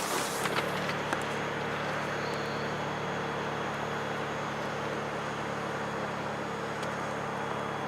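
Car engine running steadily at low revs while the car creeps slowly in reverse, an even hum with a few faint steady whining tones above it.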